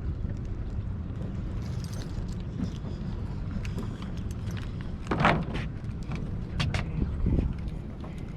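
An engine idling steadily with a low rumble, with a few sharp clunks about five seconds in and again near the end.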